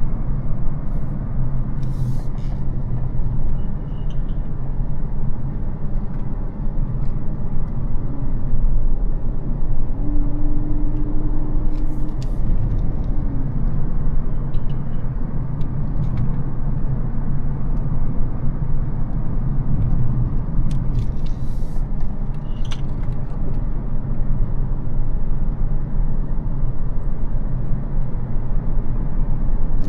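Mercedes CL600's 5.5-litre twin-turbo V12 (M275) carrying the car along at a steady pace: a continuous low engine and road rumble, with a short steady tone about ten seconds in and a few faint ticks.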